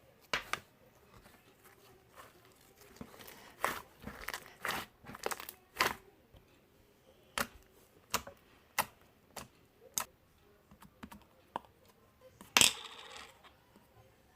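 Scattered, irregular clicks and taps, busier about three to six seconds in, with the loudest knock and a short rustle about twelve and a half seconds in.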